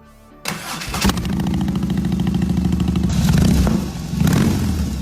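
BMW R18 motorcycle's big boxer twin engine starting about half a second in, then running and being revved in swells, twice growing louder near the end.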